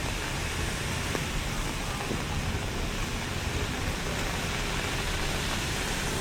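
A steady, even hiss of rain falling, mixed with road traffic on wet streets.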